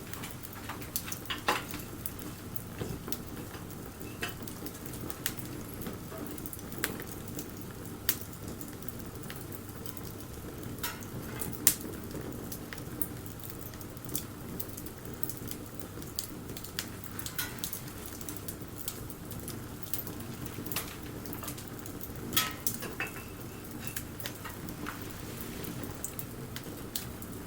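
Wood bonfire crackling: irregular sharp pops and snaps over a steady low hiss of the burning fire, with a louder pop about halfway through.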